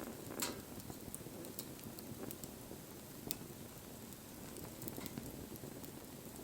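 Wood bonfire crackling: irregular sharp pops and ticks over a soft low rushing of the flames. The loudest pop comes about half a second in and another just after three seconds.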